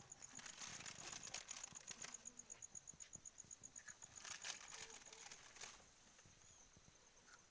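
Near silence with a faint, high-pitched chirping pulse repeating about nine times a second, like an insect, that stops near the end, and a few soft rustles and clicks.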